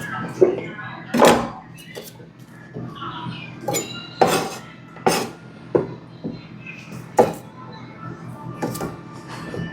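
Kitchen clatter of a knife, dishes and cookware being handled: irregular sharp knocks and clinks, one every second or so, over a faint steady hum.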